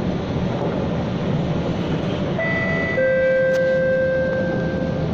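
SMRT C651 train running, heard from inside the car as it comes into a station: a steady rumble, joined about two seconds in by a high electric whine of fixed pitch that steps down to a lower pitch a second later and cuts off near the end.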